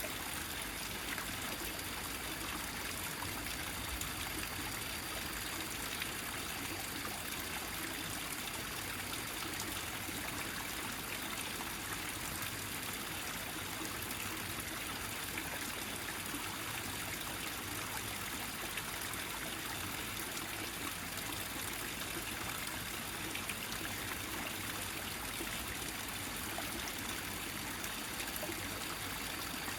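A small mountain stream trickling steadily, its water gathered into one flow.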